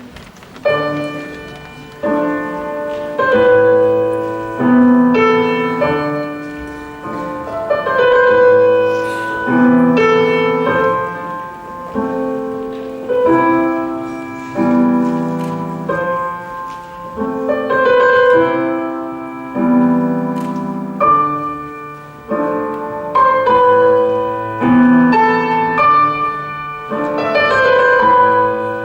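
Solo piano playing a slow, melodic piece: notes and chords struck about once or twice a second, each ringing and dying away, in phrases that swell and ease off every couple of seconds.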